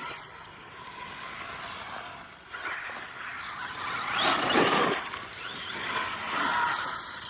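Arma Mojave EXB 6S RC truck driving, its brushless motor whining with speed changes over the sound of the tyres. It is loudest about four and a half seconds in.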